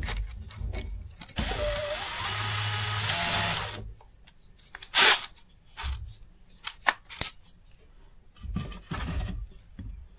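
Craftsman 20V brushless cordless drill running briefly for about two seconds, its motor pitch rising, then a string of sharp clicks and knocks as the tool is handled. The loudest click comes about five seconds in.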